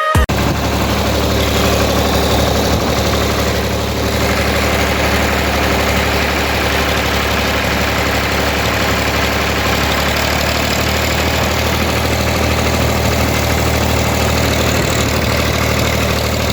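Ford 4000 tractor engine idling steadily.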